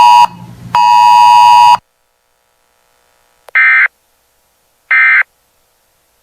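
A loud buzzing alert tone cuts off just after the start and sounds again for about a second. After a pause come three short, identical bursts of data-modem warble, about a second and a half apart: the SAME end-of-message code that closes a NOAA Weather Radio alert broadcast.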